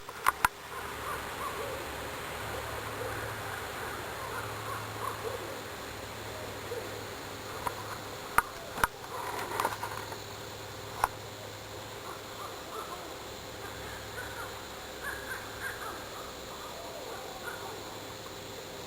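Repeated short, high screeching calls of an unidentified wild animal, scattered throughout. There are a few sharp knocks: two right at the start, two about halfway through and one a little later.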